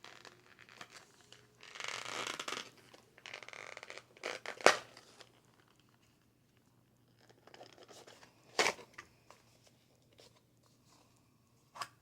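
Snack packaging being torn open and crinkled, in two rasping rips about two and three seconds in. A few sharp clicks follow, the loudest just before halfway.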